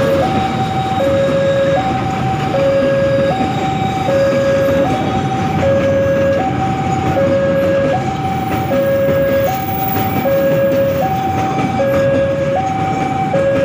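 Train of crude palm oil tank wagons rolling past, its wheels on the rails making a steady rumble. Over it a two-tone electronic warning signal alternates high and low, each tone lasting about three-quarters of a second.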